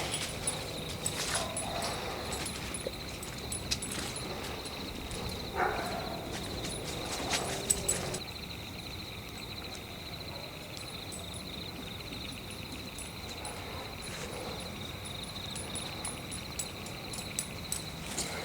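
Night forest ambience: steady high-pitched insect chirring, with footsteps crunching on the forest floor in the first half that stop about eight seconds in.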